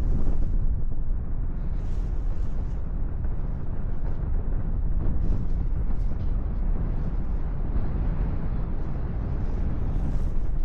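Wind buffeting the microphone in paragliding flight: a steady, deep rumbling rush of air.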